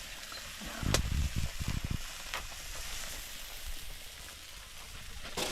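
Pot of fish cooking over a fire, giving a steady sizzling hiss. A sharp click about a second in is followed by a few dull low bumps.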